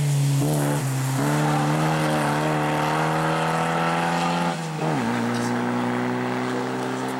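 Škoda rally car's engine pulling hard, its note climbing steadily, then dropping sharply about two-thirds of the way through, as at a gear change or lift-off. It then runs steady at lower revs as the car pulls away.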